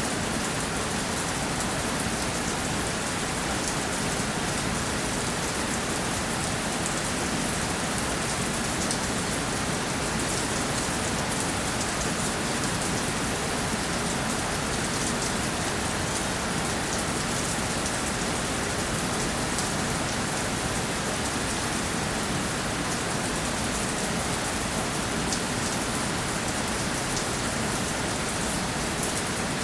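Steady rainfall hitting a surface, an even hiss of many drops with no let-up or thunder.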